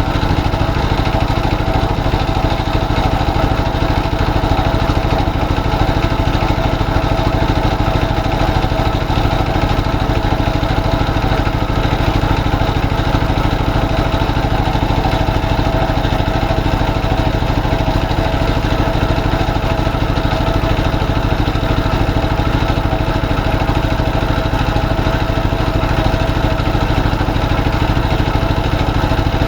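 A boat's engine running steadily at an even speed, with no change in pitch or loudness.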